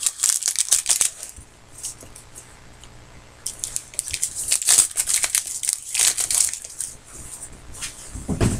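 Crinkling and rustling of plastic trading-card packaging being handled, in two spells: one in the first second and a longer one from about three and a half to seven seconds in.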